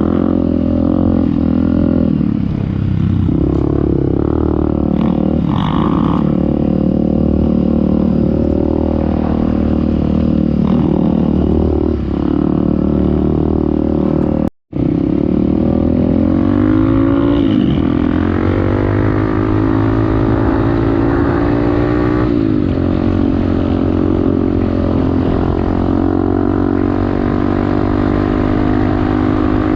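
Off-road motorcycle engine running under throttle, its pitch rising and falling with the throttle and climbing steadily in the second half. The sound cuts out for a split second about halfway through.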